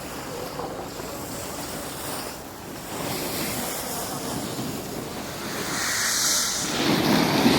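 Wind rushing over the microphone and the scrape of sliding on a groomed ski slope, a steady hiss that swells in the last couple of seconds, as a sharp spraying scrape of snow, like a turn or slowing down, builds near the end.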